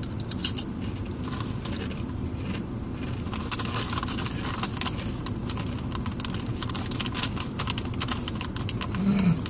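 Crunchy cheese cracker being chewed close to the microphone: a run of small, irregular crunches over a steady low rumble inside a car.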